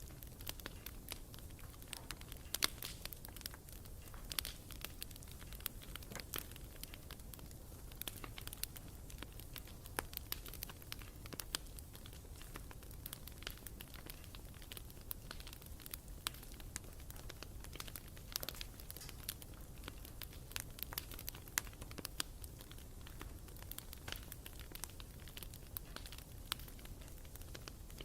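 Bonfire burning, wood crackling and popping in many irregular sharp snaps over a steady low rumble of the flames.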